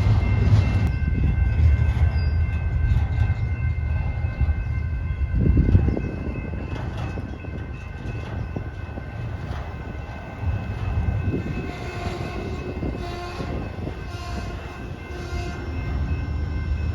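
A train running by on the tracks: a heavy low rumble, loudest in the first six seconds and then easing, with steady high-pitched tones throughout and a few short repeated tones in the second half.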